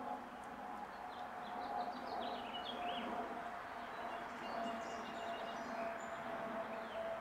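Small songbirds chirping in short, scattered calls over a steady background hum.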